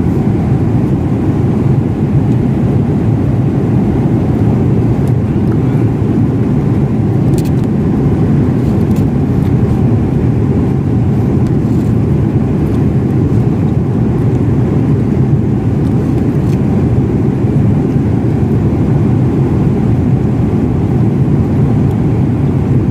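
Steady low roar of an airliner's cabin in cruise: engine and airflow noise heard from inside the cabin, unchanging throughout.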